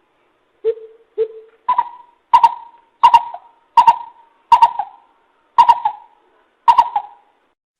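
Coucal (bìm bịp) calling: a series of short hollow hoots, about one every 0.7 s, the first two low and the rest pitched higher and louder.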